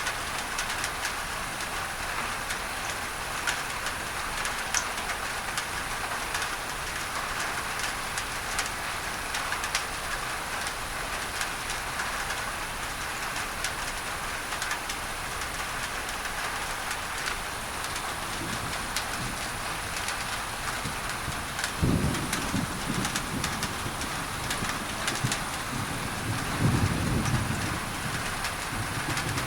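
Steady rain pattering on a tin roof, mixed with a layer of even masking noise. Thunder breaks in suddenly about three-quarters of the way through, and a second low rumble swells near the end.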